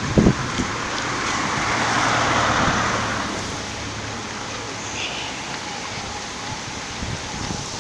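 Gusty wind rushing through trees. One gust swells and dies away a couple of seconds in, with wind buffeting the microphone at the very start.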